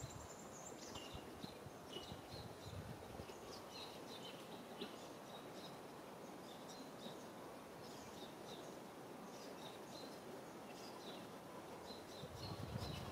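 Quiet outdoor ambience: a steady hiss with many short, high chirps of small birds calling on and off, and a few low bumps near the end.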